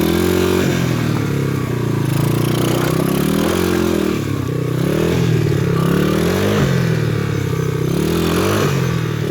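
PitPro 140cc pit bike's single-cylinder four-stroke engine being revved in repeated bursts, its pitch rising and falling about once a second, as the rider tries to drive the rear wheel out from between two rocks.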